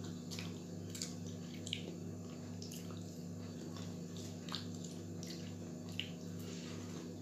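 Someone chewing and eating french fries, with a few short wet smacks of the mouth spread through, over a steady low hum.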